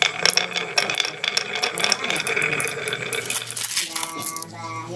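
Wood fire crackling, with many sharp pops and snaps close together. A short pitched sound comes in about four seconds in.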